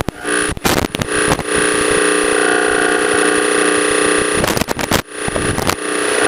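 Small single-engine piston airplane's engine running at low taxi power, a steady drone with a thin high whine, heard through the cockpit intercom. Bursts of crackle break in about a second in and again near five seconds.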